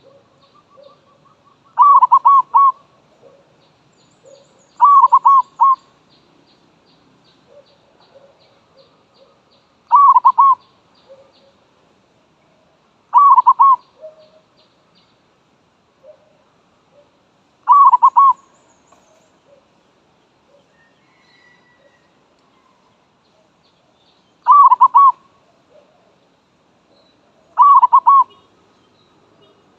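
Zebra dove (merbok) decoy bird cooing: seven short, loud phrases of quick rolling coo notes, a few seconds apart. Faint chirps from small birds come in between.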